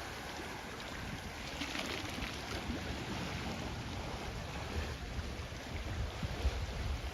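Sea waves washing onto the beach, with wind buffeting the microphone and rumbling in gusts.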